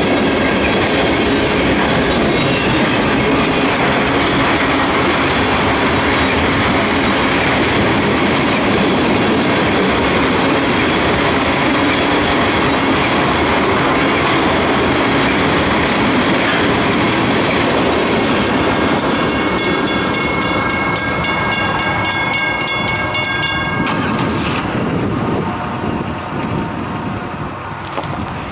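Freight train cars rolling past close by: a dense steady rumble with wheels clicking over the rail joints. In the last third a high ringing with a fast pulse stands out over the rolling, stops abruptly about 24 seconds in as the tail of the train passes, and the sound dies down.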